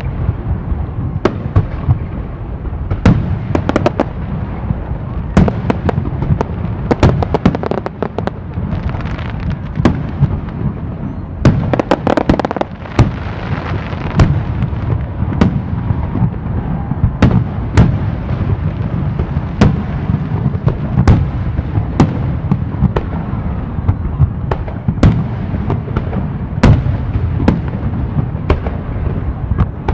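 Fireworks display: aerial shells bursting with sharp bangs, one or two a second, over a continuous low rumble of booms. A dense barrage of crackling bursts comes about twelve seconds in.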